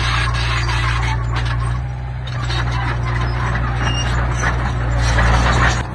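Heavy diesel engine of a mini bulldozer working under load, with the clatter and scrape of stone and steel. It eases briefly about two seconds in, builds near the end, then drops off suddenly.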